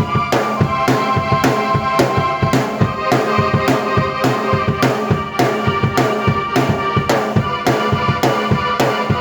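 Drum kit and keyboard played together by one performer in an instrumental piece: a steady beat with strong cymbal-and-drum hits about twice a second under sustained keyboard chords and melody.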